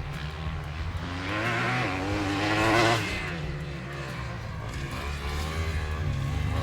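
Motocross bike engine revving up under acceleration, its pitch climbing to a peak about three seconds in, then easing off as the throttle is backed off, over a steady low rumble.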